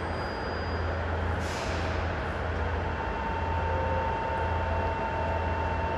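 Electric train standing at the platform just after arriving, its equipment humming steadily. A short hiss of air, typical of air brakes, comes about a second and a half in, and a steady tone joins about three seconds in.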